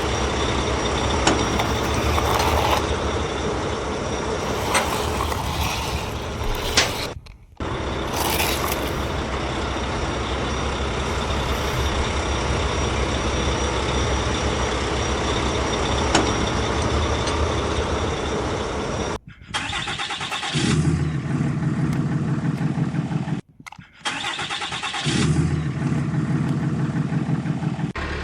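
Truck engine running steadily, the sound breaking off abruptly three times for a moment, with a deeper idling note in the later part.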